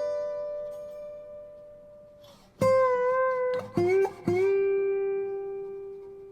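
Background music: slow, single plucked guitar notes, each left to ring and fade. A new note sounds about two and a half seconds in, and two more just after four seconds, the last bending up into pitch and ringing on.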